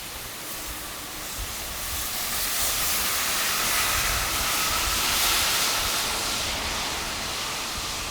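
A vehicle passing on a snowy street, its tyre hiss swelling to a peak midway and fading away, with a faint steady whine at the loudest part.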